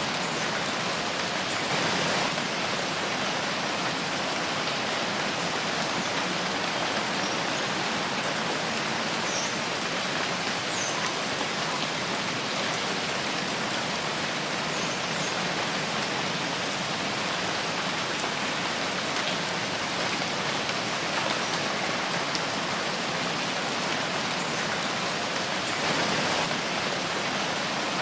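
Steady rain falling in a forest, an even hiss of drops on leaves and ground with scattered individual drip ticks and a brief swell in intensity about two seconds in and again near the end.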